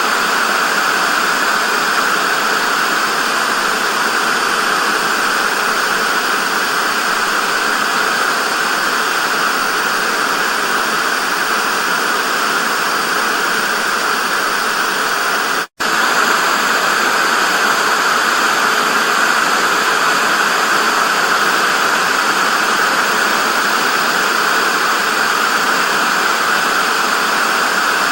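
Television static hiss: steady white noise, strongest in the upper middle range, that cuts out for an instant about halfway through before resuming unchanged.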